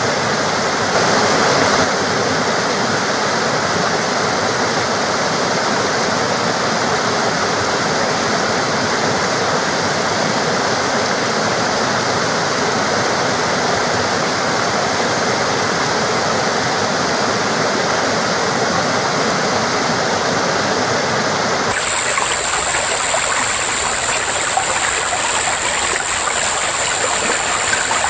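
Forest stream flowing steadily, a continuous rush of water. About three-quarters of the way through, the sound changes abruptly to a brighter, hissier rush with less low rumble.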